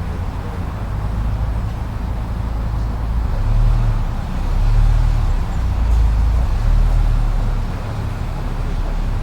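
Blizzard wind blowing steadily, with a deep rumble that swells louder in several gusts around the middle.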